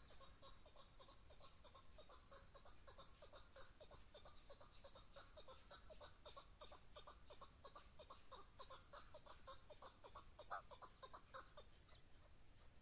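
Chukar partridge giving a faint, rapid run of soft clucking notes, several a second, with one slightly louder note about ten and a half seconds in.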